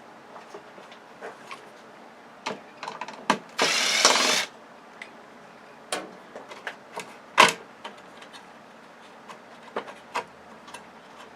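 Clicks and knocks of hand tools and small parts being handled while a flat-screen TV is taken apart, with one harsh burst of noise lasting under a second about three and a half seconds in and a sharper knock about seven seconds in.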